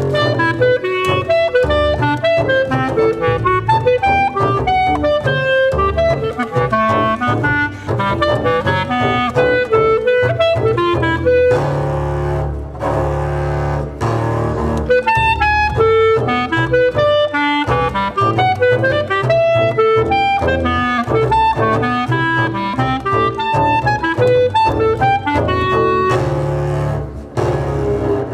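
Contemporary improvised chamber music for clarinet and double bass. The clarinet plays a fast, dense run of short notes, changing pitch several times a second, over low held double bass notes. The music thins out briefly about 12 seconds in and again near the end.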